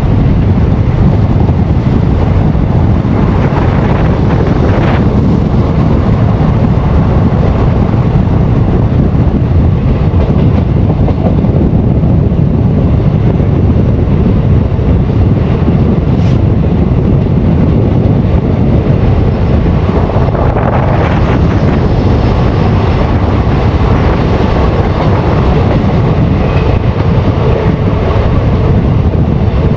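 Passenger train running along the line: a steady rumble of the coach on the rails, with wind buffeting the microphone.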